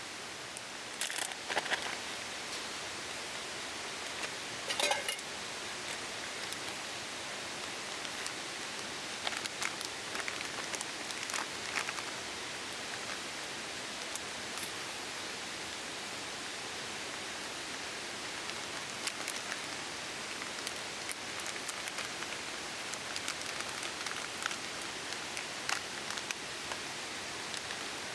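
A steady hiss, with scattered short clicks, knocks and rustles of camp cooking gear being handled; the strongest knock comes about five seconds in, and a cluster follows around ten seconds in.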